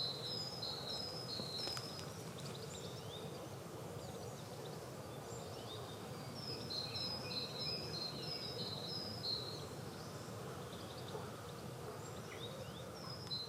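Spring garden birdsong: a songbird repeats a high two-note phrase, alternating a higher and a lower note, in three runs a few seconds long. Fainter chirps from other birds sound between the runs, over a steady low background hum.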